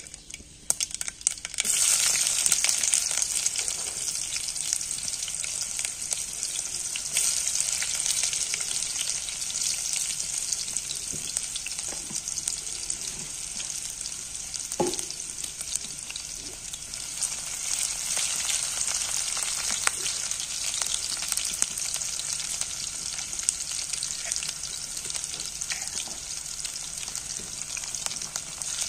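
Vegetable curry frying in hot oil in a pan: a loud sizzle starts suddenly about a second and a half in and carries on steadily, with the light taps and scrapes of a spoon stirring it.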